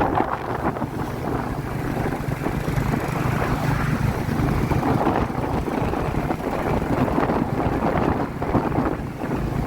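Wind buffeting the microphone of a moving motorcycle, with the Royal Enfield Classic 350's single-cylinder engine running steadily underneath.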